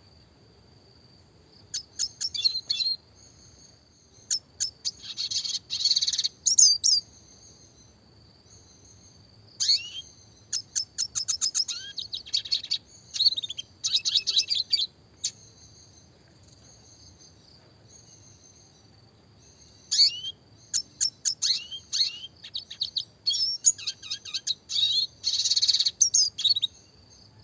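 Red siskin singing: bursts of rapid high chirps and fast trills, each lasting a second or several, with pauses of a few seconds between them.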